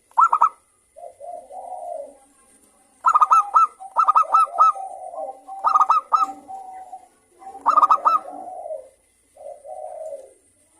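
Zebra doves (perkutut) calling back and forth: quick runs of short, sharp, high staccato notes, each run trailing into lower rolling coos, four times over.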